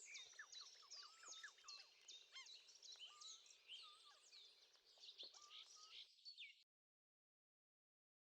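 Faint chorus of birds, many quick overlapping chirps and short calls. It cuts off about six and a half seconds in to dead silence.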